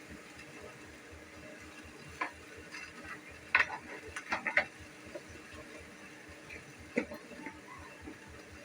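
Cooking utensils knocking and clinking against pots: a single knock, then a quick cluster of clinks, then one more knock, over a steady faint background.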